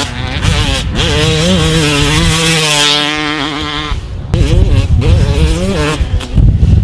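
Yamaha YZ250 two-stroke motocross engine under riding load. The revs climb and hold high, fall off about three seconds in, then pick up again louder and harder from about four seconds in.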